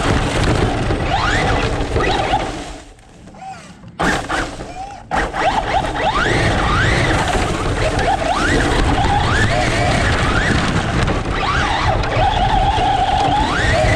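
Radio-controlled truck's motor whining up in repeated short rising bursts as the throttle is blipped, over the rush of tyres on dirt. The sound drops away for about two seconds a few seconds in, then the bursts start again.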